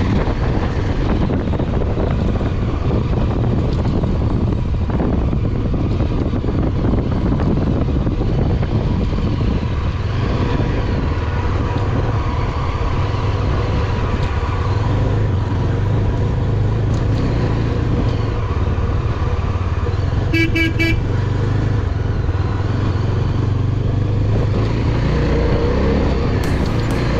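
Motorcycle on the move: a steady engine note under heavy wind noise on the microphone. A short vehicle horn toot sounds about two-thirds of the way through.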